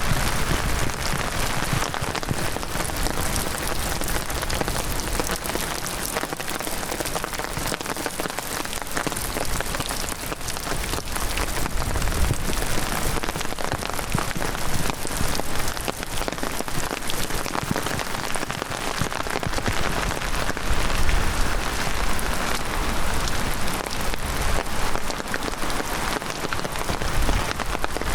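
Heavy rain falling: a dense, steady patter of raindrops.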